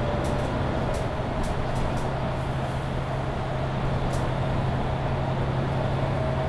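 Mercedes-Benz Citaro C2 Hybrid bus driving at a steady pace, heard from inside: an even engine and drivetrain drone with road noise and a few faint clicks.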